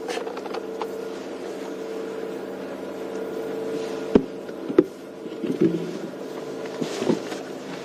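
Safari game-drive vehicle's engine running steadily while driving, with a few sharp knocks about four and five seconds in and again near the end.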